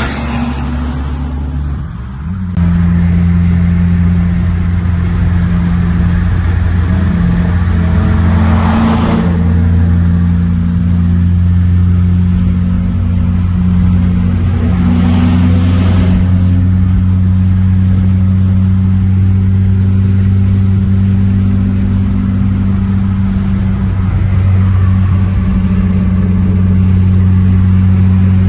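Muffler-deleted exhaust of a Saab 9-3 Aero's 2.8 turbo V6 droning loudly at a steady engine speed. It gets louder about two and a half seconds in, and brief rushing surges come about nine and fifteen seconds in.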